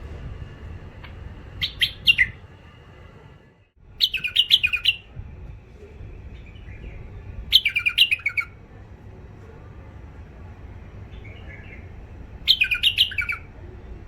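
Caged bulbul singing four short, rough, chattering phrases of about a second each, over a steady low hum.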